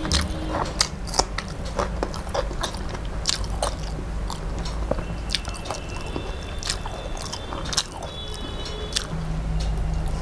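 Close-miked chewing and wet mouth sounds, with squishing and many short sharp clicks of fingers mixing rice and curry on a steel plate.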